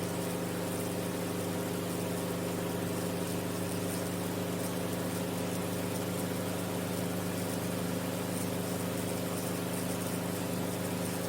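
Enstrom F28F helicopter in powered flight: its piston engine and rotors running steadily, an even hum made of several fixed tones with a hiss above.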